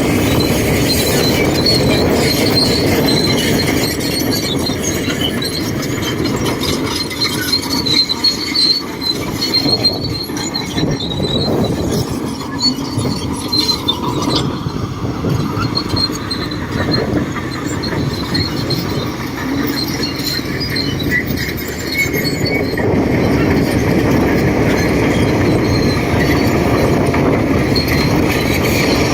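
Shantui DH17C2 crawler bulldozer working: its diesel engine runs under load while the steel tracks clank, with a high squeal over the rumble. It eases somewhat in the middle and grows louder again about three-quarters of the way through.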